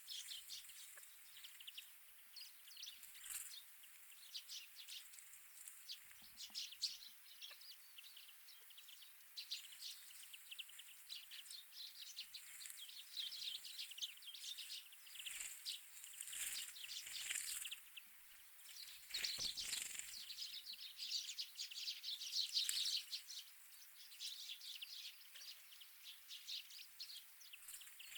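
A flock of small wild winter birds at a feeder chirping and twittering, with many quick overlapping calls throughout that grow busier midway.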